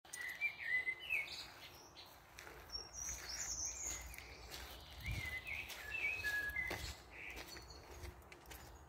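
Small birds chirping: a string of short, quick whistled notes that slide up and down in pitch, heard over a faint background hum.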